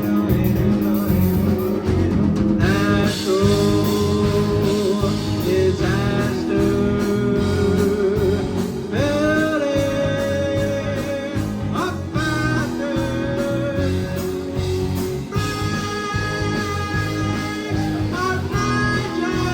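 Live rock band playing: electric guitar, bass, drums and synth, with a singer's melody wavering over the top.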